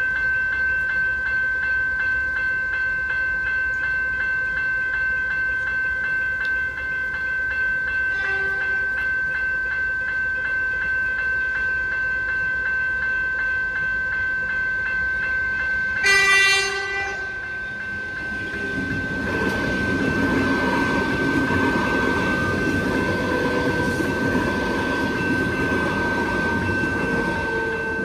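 Level crossing's General Signals electronic bell ringing continuously with a fast, even pulse. A brief train horn note sounds about eight seconds in, and a louder, longer horn blast comes at about sixteen seconds. From about nineteen seconds a train rumbles over the crossing while the bell keeps ringing.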